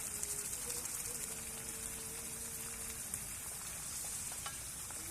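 Fish frying in hot oil: a steady sizzle with fine crackling.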